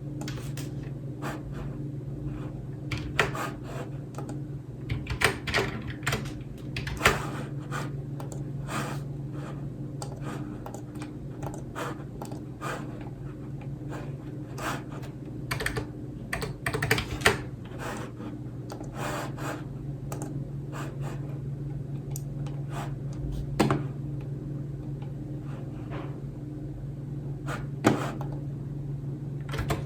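Typing on a computer keyboard: irregular key clicks, some in quick runs, with a few louder strokes, over a steady low hum.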